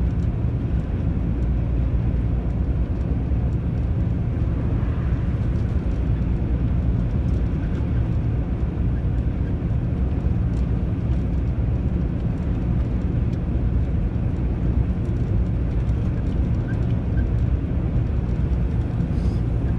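Long-haul truck driving on the highway: a steady low drone of engine and road noise with no change in pace.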